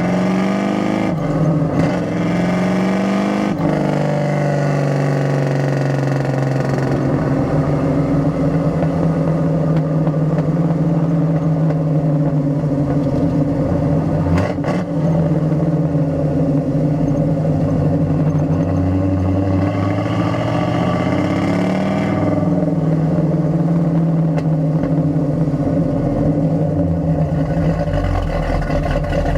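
Exhaust of a 455 V8 with headers, heard from the rear of the car while driving: the revs climb and drop off sharply twice in the first few seconds as it shifts up through the 4-speed manual gearbox, then it cruises at fairly steady revs.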